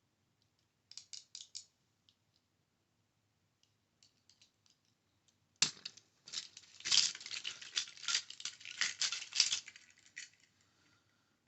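Tapping and scratching on a Hot Wheels die-cast toy car, ASMR-style. There are a few light taps about a second in, then a dense run of rapid crisp taps from about halfway in that stops shortly before the end.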